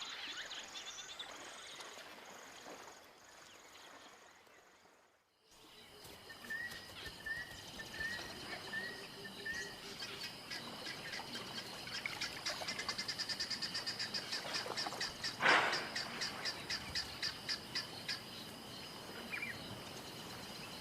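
Bush ambience with birds calling: a string of short repeated notes, then a fast, even chirping that runs for several seconds. The sound drops to near silence briefly about five seconds in, and one louder brief call stands out later.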